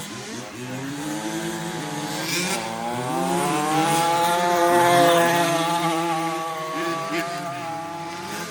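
Several remote-control 4WD race trucks' motors whining at high revs. The loudest climbs in pitch and level to a peak about halfway through and then falls away as a truck passes close by, while others run underneath.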